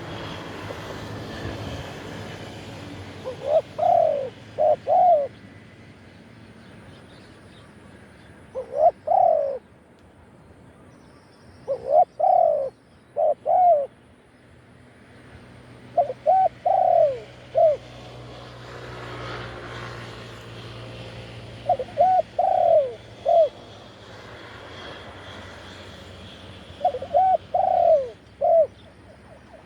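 Spotted dove cooing: six short phrases of two to four coos each, spaced several seconds apart, over a steady faint hum.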